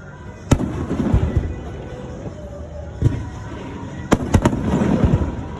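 Fireworks shells bursting overhead: a sharp bang about half a second in, another about three seconds in, and a quick cluster of bangs near the end, each followed by a rolling crackle and rumble.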